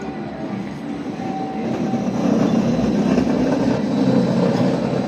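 Edinburgh tram, a CAF Urbos 3, running on its rails: a steady rumbling running noise that swells about two seconds in and eases off near the end.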